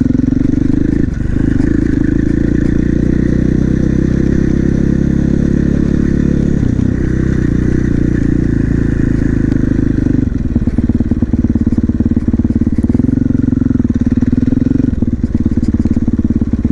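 2021 KTM 450 SMR supermoto's single-cylinder four-stroke engine running while the bike is ridden. The engine note holds steady between a few changes in pitch, about a second in, near seven seconds and around ten seconds, as the throttle or gear changes.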